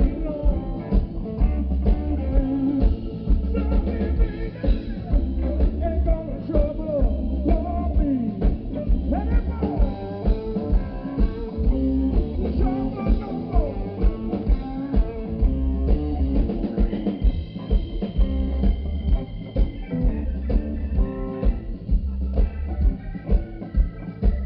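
Live blues band playing: guitar lines with bent notes over bass and a drum kit keeping a steady beat.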